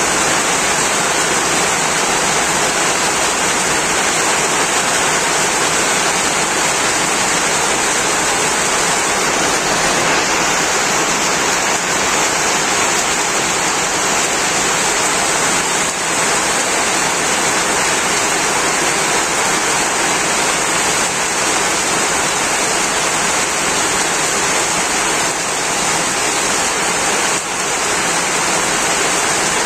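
Heavy rain pouring steadily onto corrugated tin roofs and a flooded yard, a loud, dense, even hiss.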